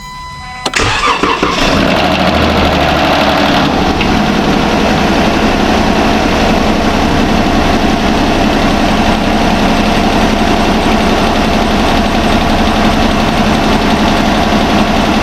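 Jeep Wrangler's swapped-in 3.6-litre Pentastar V6 starts for the first time: it cranks and catches under a second in, runs up briefly, then settles to a steady idle with a misfire, which the owner puts down to a valve lash adjuster (lifter) not yet bled of air.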